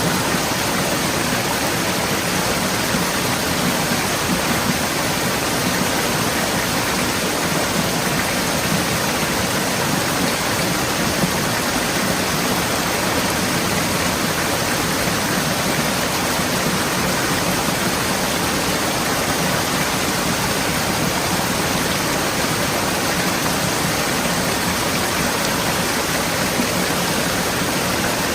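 Forest stream flowing and splashing over rocks, a steady, even rush of water.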